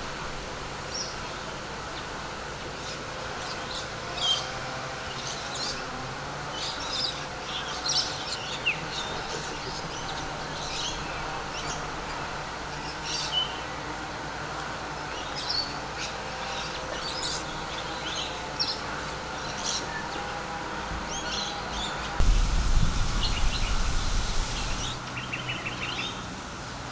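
Many small birds chirping and calling in short, scattered notes over a steady low background hum. About 22 seconds in, a loud rushing noise lasts two to three seconds and covers the birds.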